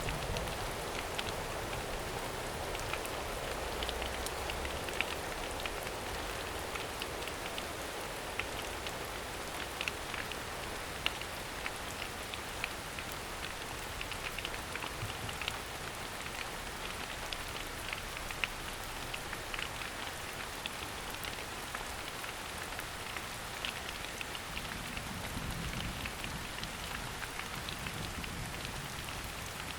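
Steady rain falling in a forest, a continuous hiss with many individual drops ticking through it.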